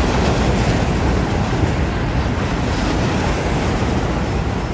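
Eurostar high-speed train passing through the station at speed without stopping: a loud, steady rush of wheels and air that eases slightly near the end.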